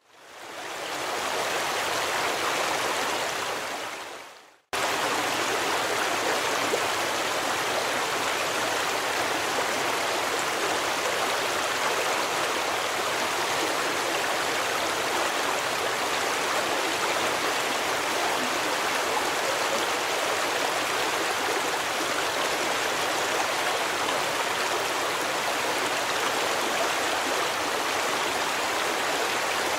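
A flowing stream rushing steadily, a dense even hiss of water. It fades in, dies away to a moment of silence about four and a half seconds in, then cuts back in abruptly and runs on evenly.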